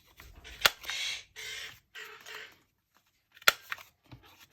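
Scrapbook paper being handled at a craft table: a sharp click, then three short scratchy rustles of paper, and another click near the end.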